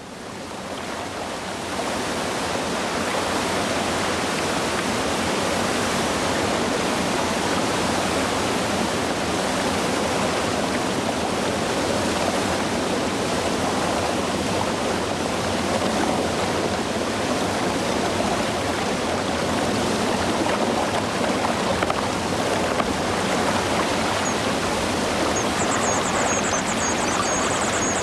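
Steady rush of a waterfall, swelling in over the first two seconds. Near the end a high, fast-chattering bird song sounds over the water.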